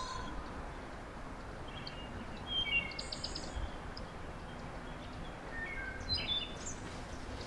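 Small songbirds chirping in short, high calls: a cluster a little before the middle, with a quick rapid run of notes, and another cluster near the end, over a steady outdoor background hiss.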